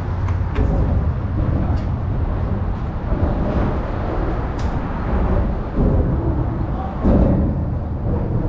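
Wind buffeting the microphone of a camera on a moving bicycle: a steady low rumble with no clear tone.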